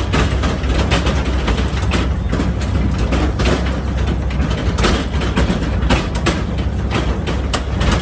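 Tractor engine running steadily, with frequent rattles and knocks throughout.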